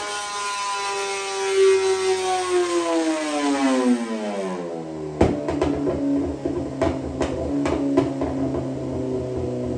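Inline-four sport bike engine on a chassis dyno winding down after a run, its pitch falling steadily for about five seconds. About five seconds in come several sharp clicks, and the engine settles to a steady idle.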